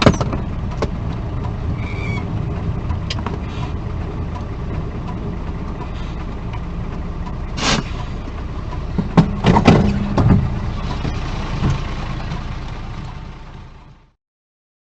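Road vehicle running, as picked up by a car's dashcam, with a sharp bang about eight seconds in and a cluster of loud knocks and thumps a second or two later, the loudest moment; the sound then fades out.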